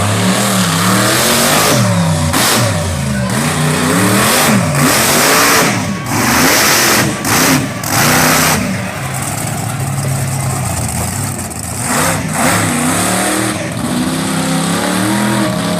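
Monster truck engine revving hard over and over, its pitch climbing and dropping repeatedly, with loud blasts about two to eight seconds in.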